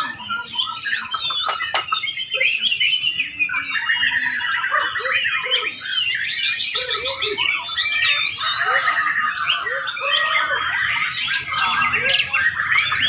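White-rumped shama (murai batu) singing a long, varied song of whistles, chirps and fast trills with no pauses.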